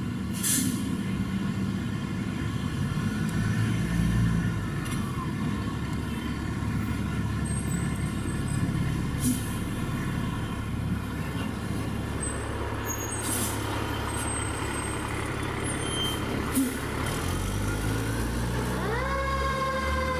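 Fire truck's diesel engine running, with short air-brake hisses a few times. Near the end its siren starts, sweeping quickly up in pitch and then slowly falling.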